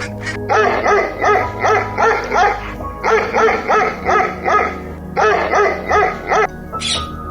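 An animal giving short, rapid barking calls, about three a second, in three runs with brief pauses between them, over background music.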